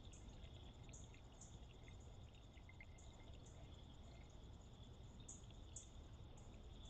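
Faint night insects, crickets, trilling steadily, with louder high chirps recurring every half second to a second.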